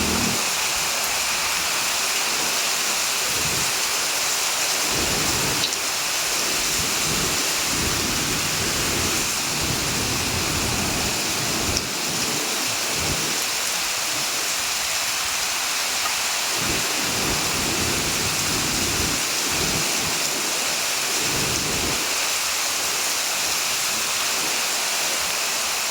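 Heavy rain falling steadily, a dense, even hiss, with low rumbles swelling and fading underneath every few seconds.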